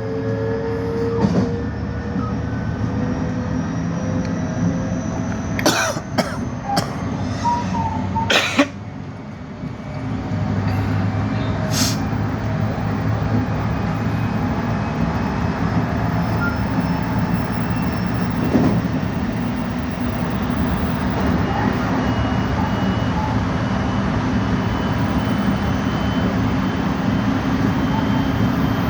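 Electric commuter train running on the rails with a steady rumble and a faint whine that rises in pitch. Several sharp clicks come about six to eight seconds in, with another about twelve seconds in.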